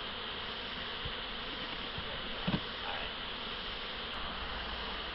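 Many honey bees buzzing around an opened hive, a steady hum throughout, with one soft knock about two and a half seconds in.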